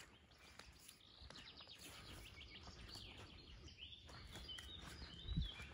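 Faint woodland birdsong: quick series of short high chirps and trills. There is a single soft low thump near the end.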